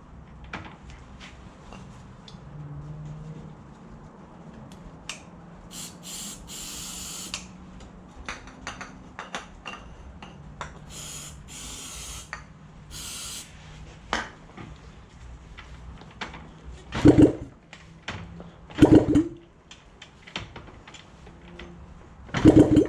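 Aerosol starting fluid sprayed in three short hissing bursts while priming the old Honda CB250 engine to start it. Later come three loud short thumps.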